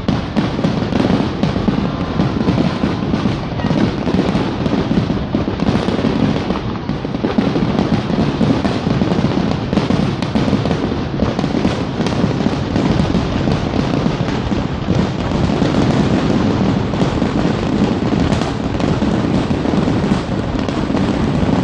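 Fireworks display: a dense, continuous barrage of bursts and crackling with no break.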